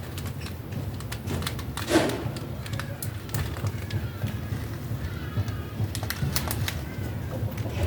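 Scattered scrapes and knocks of hands and a tool working soft garden soil into shallow furrows, with a thump about two seconds in, over a low steady rumble. A faint wavering high call sounds near the middle.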